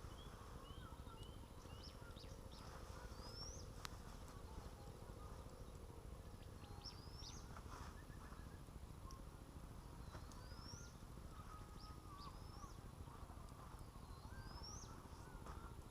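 Faint birdsong: a high rising whistled phrase repeats about every four seconds among other short calls, over a low steady rumble of wind.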